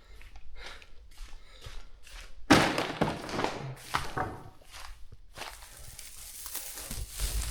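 Footsteps, with one loud thud about two and a half seconds in, then a steady rustling hiss in the last couple of seconds.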